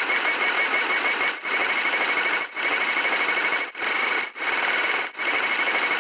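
Steady hiss of rain, with a faint rapid high pulsing tone in it, cut off briefly about five times.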